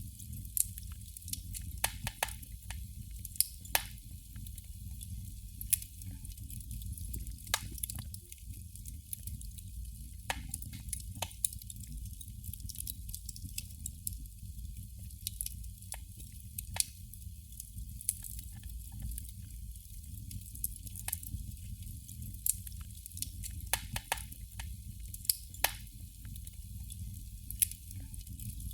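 Candle flame crackling: sharp, irregular pops and snaps, a few every couple of seconds, over a steady low rumble.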